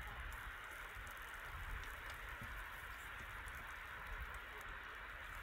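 Salmon fillet frying in oil in a pan: a steady, quiet sizzle with small crackles.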